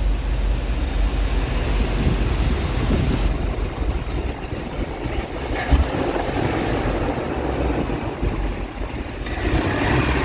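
Chevrolet 350 small-block V8 in a 1981 Chevy truck idling steadily, just swapped in and running again, with one brief thump about halfway through.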